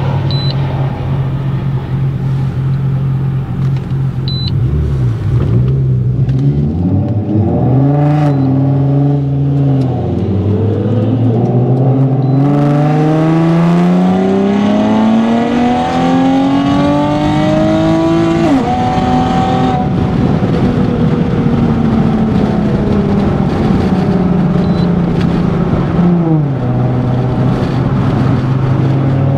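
Nissan 370Z's 3.7-litre V6 with a full Tomei exhaust, heard from inside the cabin. It idles steadily, then pulls away with the pitch climbing in a long run up the revs. The pitch drops suddenly about 18 seconds in at a gear change, then the engine cruises steadily, with a further drop in pitch near the end.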